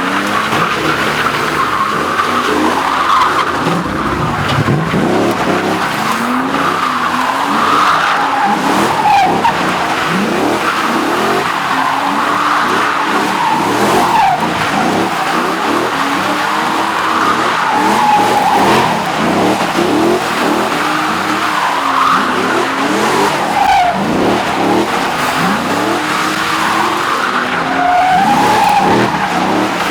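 Drift car engine revving up and down again and again while its tyres squeal without a break: a car being held in a drift on the throttle.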